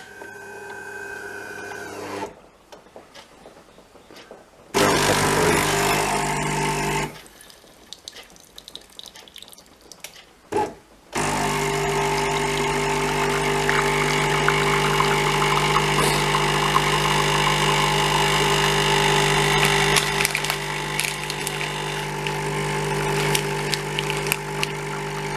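De'Longhi bean-to-cup coffee machine running a cycle with pre-ground coffee: its motor runs for about two seconds around five seconds in, then after a pause the machine starts again about eleven seconds in and runs steadily to the end.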